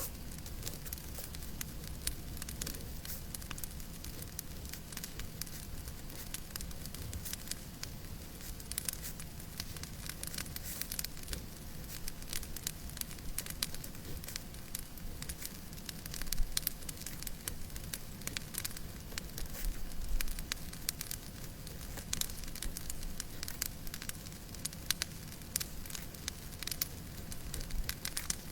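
Wood fire crackling in a fireplace: a dense run of sharp crackles over a steady low rumble and soft hiss, with one louder crack about sixteen seconds in.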